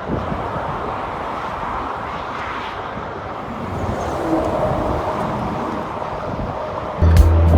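Steady road traffic noise from cars passing on the bridge, swelling and easing as vehicles go by. Music with a strong beat cuts in suddenly near the end.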